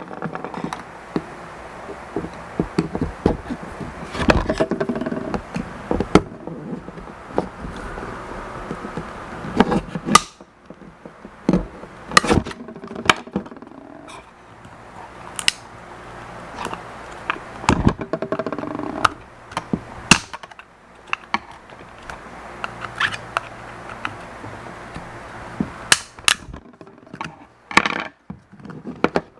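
Hand tools and plastic parts of an Omron H7CN-XLN electronic counter clicking, tapping and scraping as the counter is taken apart: many irregular sharp clicks and knocks over a steady low hum.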